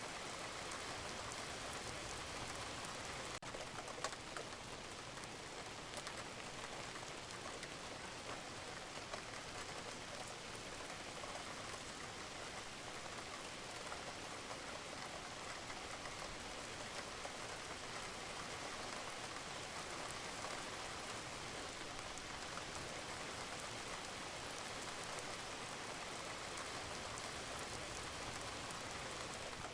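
Steady rain falling on a roof, with water dripping and a sharper drop landing about four seconds in.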